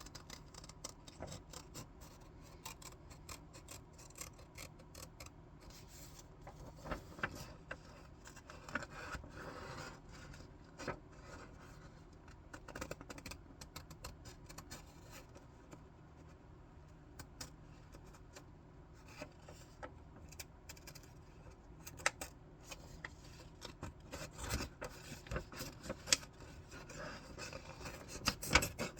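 Scissors cutting through paper, with the sheet rustling and crinkling as it is handled: scattered snips and paper rustles, sparser midway and busier and louder near the end.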